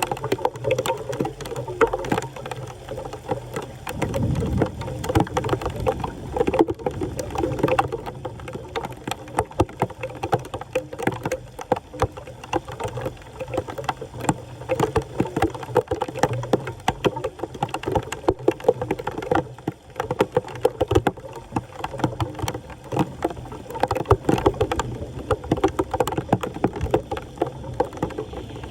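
Floodwater splashing and sloshing, with a constant run of small sharp splashes and knocks.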